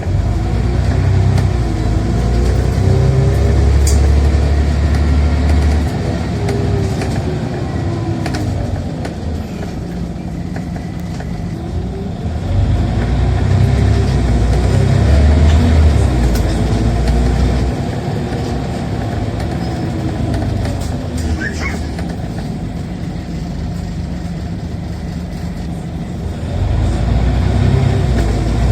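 Scania Omnicity single-deck bus heard from inside, its diesel engine and ZF automatic gearbox pulling hard: the engine note climbs and drops at each gear change. It accelerates three times, with quieter easing-off stretches between.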